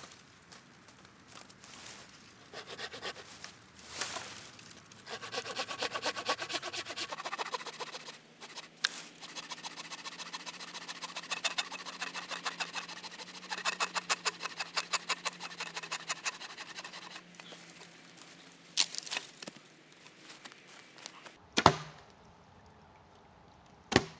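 Wooden branches being worked by hand: a long run of rapid, even rasping strokes, like a small saw cutting through a branch, then two sharp knocks of wood on wood near the end.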